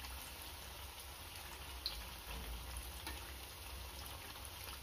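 Unniyappam frying in hot coconut oil in the wells of an unniyappam pan, a steady low sizzle and bubbling while a metal spoon turns the balls, with a light click of the spoon about two seconds in.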